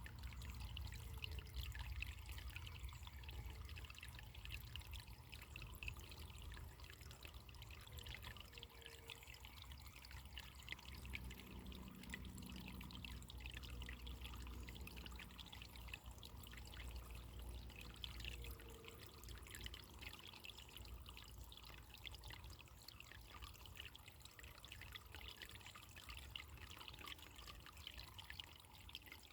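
Faint, steady trickle of running water in a small stream.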